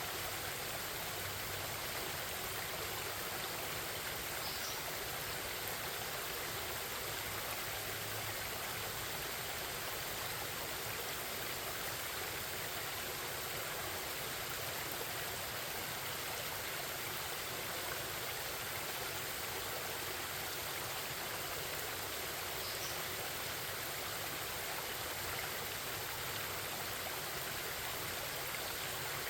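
Forest stream babbling, a steady rush of flowing water.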